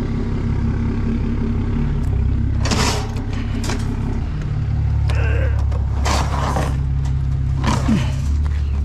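A vehicle engine idling steadily, with several short bursts of scraping and clattering from metal shelving being handled.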